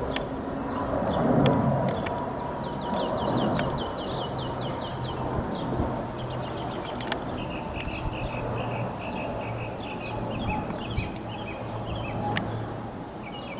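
Songbirds singing outdoors: a quick trill of falling high notes about three seconds in, then repeated short chirps. Under them is a steady low hum, with a brief swell of rushing noise about a second in.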